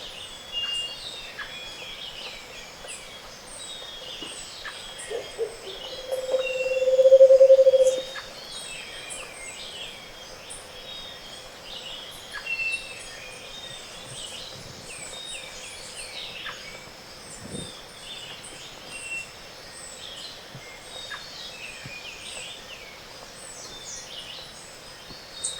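Mixed bird chorus of many small birds giving high chips, trills and whistles. About six seconds in, a Scaled Antpitta gives its low pulsed trill, which swells for about two seconds and is the loudest sound.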